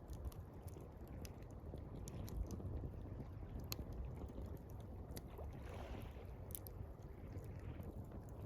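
Campfire crackling, with scattered sharp pops and ticks, over a steady low rush of gently lapping water.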